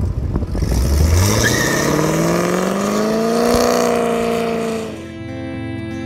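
A car engine accelerating hard off a drag-strip start line, its pitch rising steadily and then leveling off before it fades. Music takes over about five seconds in.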